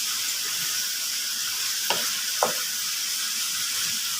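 Liver sizzling in hot ghee and oil over high heat, a steady frying hiss, with two sharp clicks about two seconds in.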